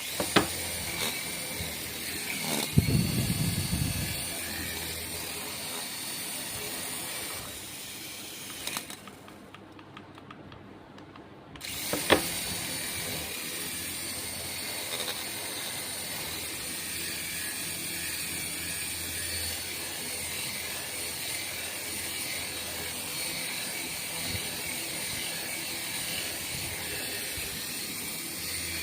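Small electric motor and plastic gears of a toy radio-control vehicle, whirring steadily. The whirring drops away for a couple of seconds about ten seconds in, then comes back with a sharp click.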